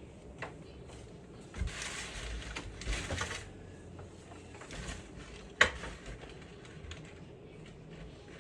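Handling noise: scattered clicks and rustling, with two short bursts of rough scraping about two and three seconds in and one sharp knock a little past the middle.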